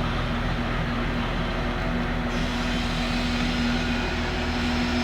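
Large engine running steadily at a constant speed, with an even hum.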